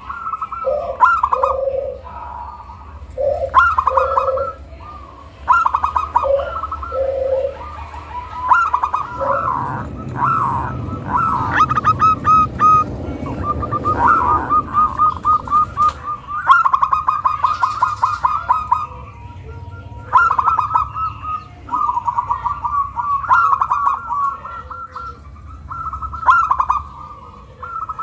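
Zebra dove (perkutut) singing: phrases of quick, rolling trilled coos, each a second or two long, repeated again and again with short pauses between them.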